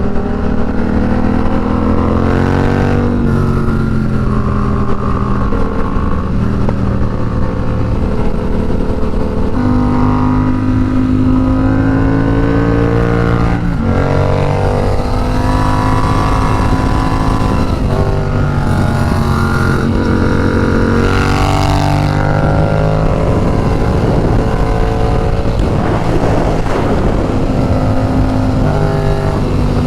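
Yamaha FZ-07's 689 cc parallel-twin engine pulling the motorcycle along, its pitch climbing and then dropping at several gear changes.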